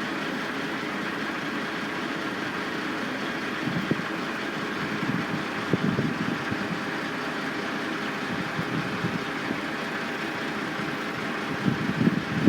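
Steady din of idling heavy construction machinery engines, with a few short louder sounds about four and six seconds in and again near the end.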